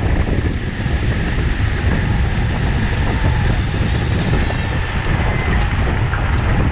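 Wind buffeting the microphone of a bike-mounted camera, a loud, steady, low rumble from riding at race speed.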